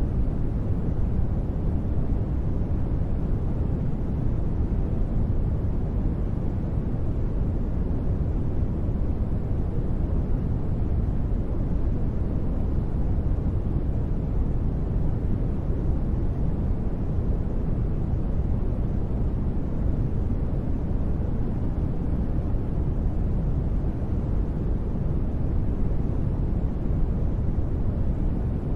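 Continuous, unchanging noise played for sleep, deep and rumbly rather than hissy, with most of its weight in the low end and no breaks or sudden sounds.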